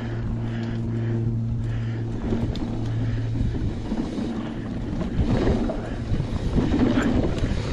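Trek Slash 8 full-suspension mountain bike ridden down a rough forest trail. A steady low buzz for about the first three seconds gives way to the clatter of tyres, chain and suspension over rough ground, with wind on the microphone.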